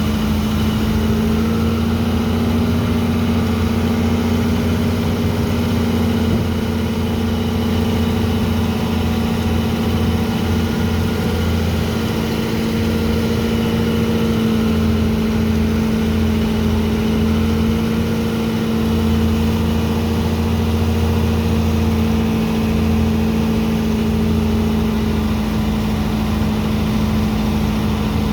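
Engine of a sand-unloading dredge pump running steadily at constant speed, a loud even drone with a low hum.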